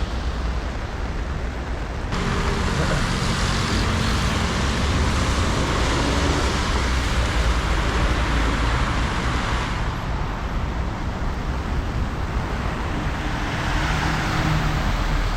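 Steady road traffic on a rain-soaked street: tyre hiss and engine rumble from passing vehicles, getting louder about two seconds in.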